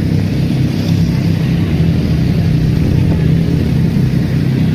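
A vehicle engine running steadily while on the move, with road and wind noise over it.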